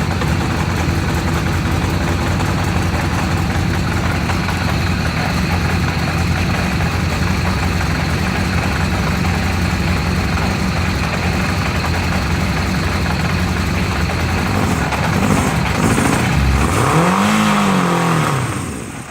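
Kawasaki Zephyr 750's air-cooled inline-four engine running steadily on a cold start, its carburettors freshly cleaned after three years in a leaking barn and not yet synchronized. Near the end it is revved once, rising and falling in pitch, then the sound fades out.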